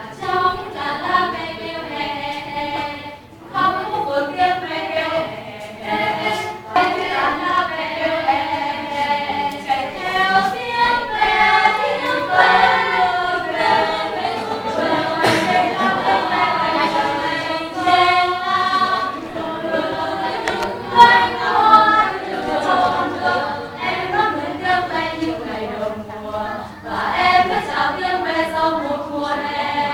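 A choir singing a Vietnamese song, many voices together, with brief breaks between phrases.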